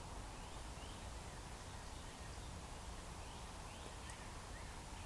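Faint woodland ambience: a steady low rumble with a few faint, short bird chirps scattered through it.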